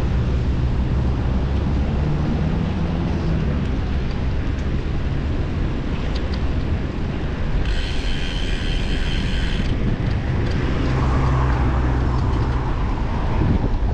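Steady wind and road rumble from a road bicycle on the move. For about two seconds in the middle comes the rapid buzzing tick of the rear freewheel as the rider coasts.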